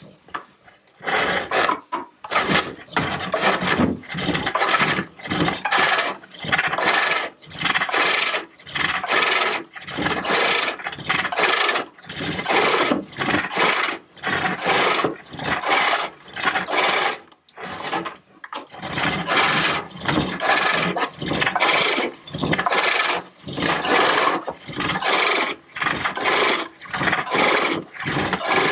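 Hook tool cutting a large walnut bowl on a pole lathe: a scraping cut on each downstroke of the treadle, about one stroke a second. There is a short pause about two-thirds through.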